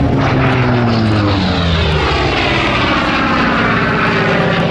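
Grumman F8F Bearcat's Pratt & Whitney R-2800 radial engine and propeller in a fast pass, the pitch falling steadily as it goes by.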